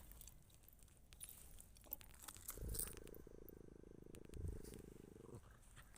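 Faint, muffled growl of a Patterdale terrier working underground beneath a concrete slab: a low, rapidly pulsing rumble of about three seconds, starting midway. Light scattered clicks are also heard.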